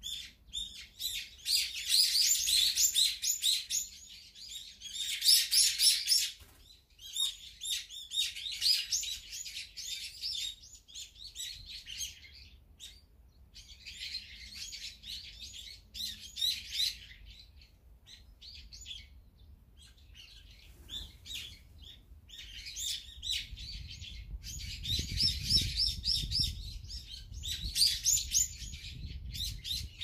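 Small wild birds chirping and chattering in rapid, busy bouts of a second or two with short lulls between. A low rumble builds in the last several seconds.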